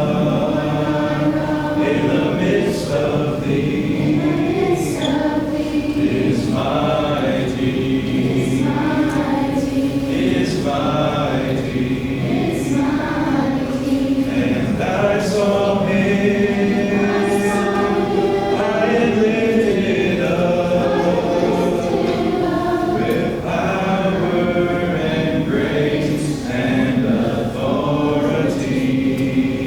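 Congregation singing a hymn together a cappella, many voices without instruments.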